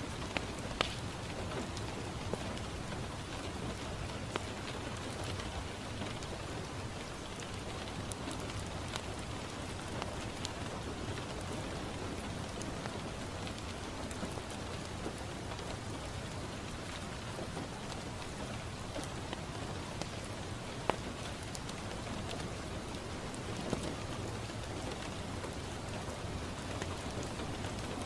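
Steady rain falling on a window, with occasional single sharp pops and crackles from a wood fire in a fireplace.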